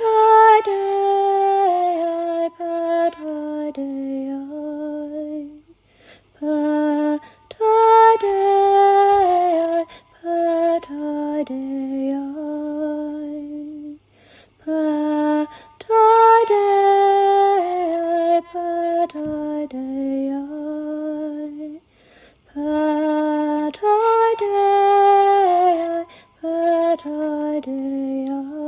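A solo female voice singing unaccompanied, slow chant-like phrases that step downward in pitch, with short breaths between them; the same melodic phrase comes back about every eight seconds.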